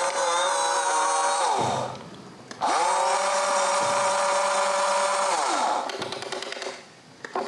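Electric motors of a radio-controlled model bulldozer or excavator whining under load. The whine holds steady, winds down about two seconds in, then cuts back in sharply, holds again and winds down a little over five seconds in.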